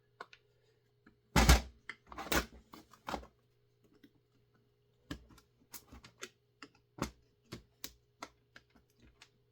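Hard clicks and knocks of chainsaw parts being handled and worked apart by hand: two louder knocks early, then a run of sharp clicks about two a second, over a faint steady hum.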